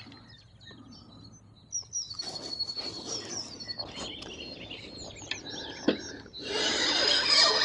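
Songbirds chirping and singing, with a sharp click about six seconds in and a louder steady rushing noise over the last second or so.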